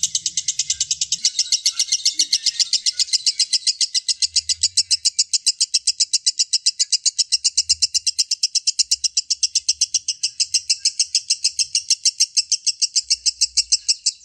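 Lovebird giving its long 'ngekek' call: an unbroken run of rapid shrill chirps, about seven a second, going on without a pause.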